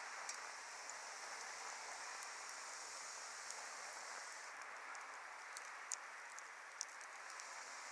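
Firewood burning in an open campfire: a steady hiss with scattered sharp crackles and pops, the loudest about six and seven seconds in.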